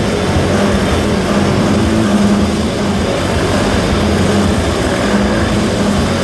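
Motorcycle engines running steadily inside a circus globe-of-death sphere, a loud continuous drone that holds the same pitch.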